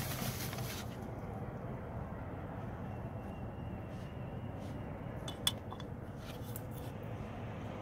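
Faint metallic clinks and ticks of hub parts being handled, with one sharp clink about five and a half seconds in, over a steady low background rumble.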